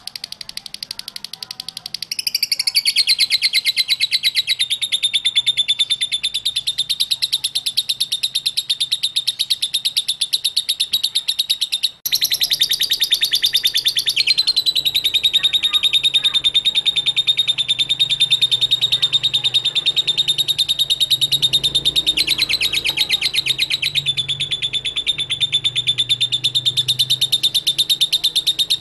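Lovebird singing its long, unbroken rapid chattering trill (the 'ngekek' song). It breaks off briefly about twelve seconds in, then carries straight on.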